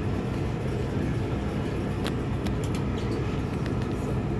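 Diesel railcar engine idling, a steady low rumble and hum heard from inside the car, with a few faint clicks about two seconds in.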